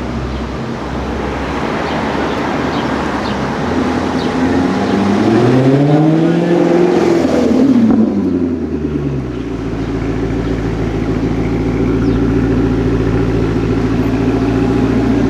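Supercar engine revving up and back down once midway through, then running steadily at a low, even pitch.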